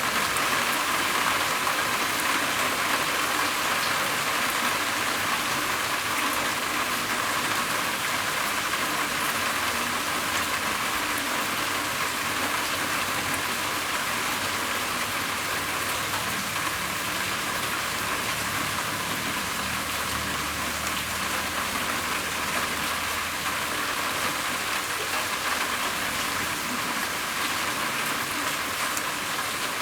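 Steady rain falling on a roof, an even patter of drops that holds constant throughout.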